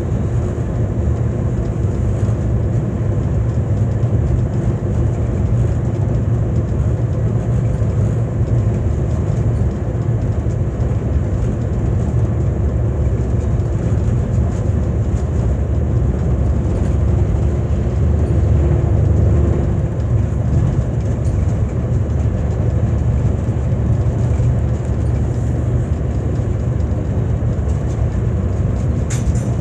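VIA Rail passenger coach running at speed, heard from inside the car: a steady low rumble with a faint steady hum, unchanging throughout.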